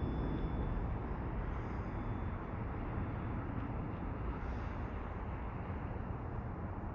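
Steady low rumble of distant vehicle noise, even and without distinct events, easing slightly about a second in.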